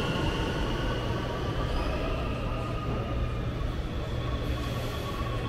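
Electric multiple unit pulling away from the platform: its motor whine and running rumble fade over the first few seconds, leaving a steady low hum.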